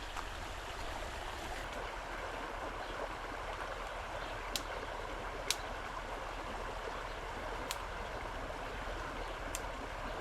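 Steady rush of river water flowing, with a few sharp single clicks over it.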